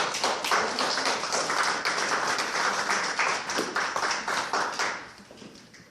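Audience clapping, many hands at once; it dies away about five seconds in.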